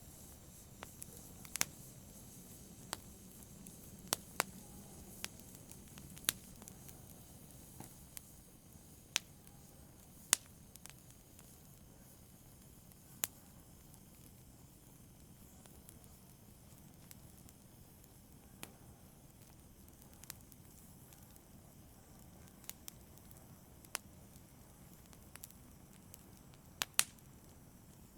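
Wood fire crackling in a fireplace: irregular sharp pops and snaps, a second or two apart, over a soft steady hiss.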